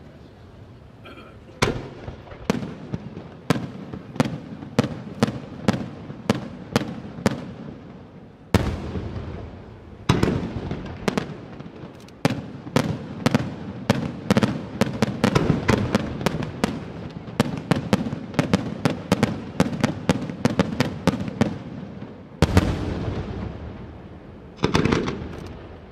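Fireworks display: aerial shells bursting one after another. At first it is sharp bangs at about one or two a second. A heavier boom comes about eight seconds in, followed by a rapid barrage of several bangs a second, and another heavy boom near the end.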